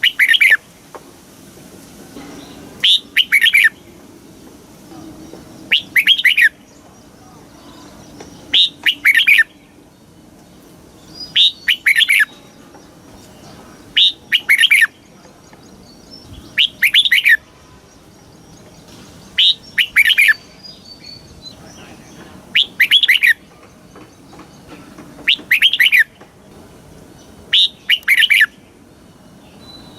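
Red-whiskered bulbul singing: a short, clear phrase of a few quick notes, repeated about every two and a half to three seconds, about ten times.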